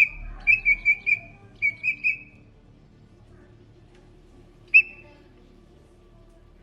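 A bug giving short, high whistling squeaks when touched. They come in quick runs of three or four, then one more squeak a few seconds later.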